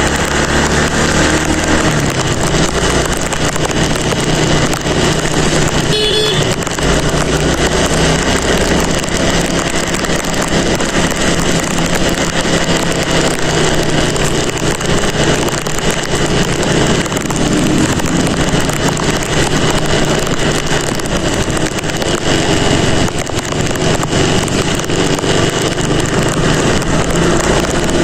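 Motorcycle under way: the engine runs with changing revs beneath steady wind and rain noise.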